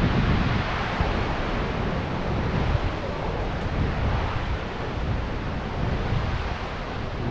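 Steady rushing noise of a waterfall's falling water, with wind buffeting the microphone.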